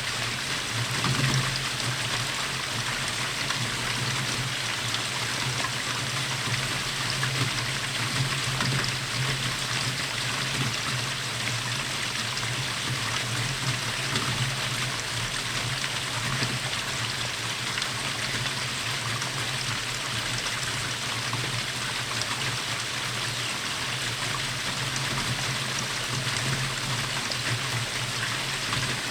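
Steady rainfall, a continuous even hiss of rain with no breaks or changes.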